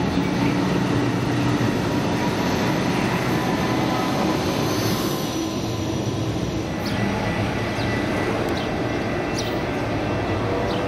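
A train running past with a steady rumble of engine and wheels on the rails, with short high-pitched squeaks in the second half.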